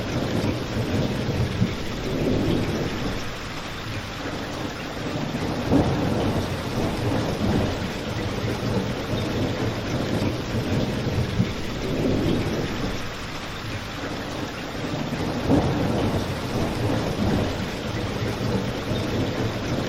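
Steady rain with a low rumble that swells and fades every few seconds, like distant rolling thunder, and a few brief pops.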